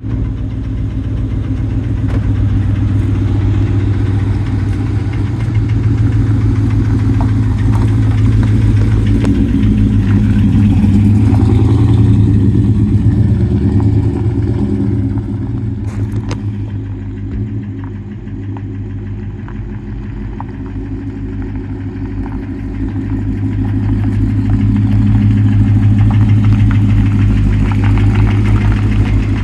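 2003 Ford F-150 STX pickup's engine idling steadily with a low, even rumble. It grows quieter for a few seconds past the middle and then louder again.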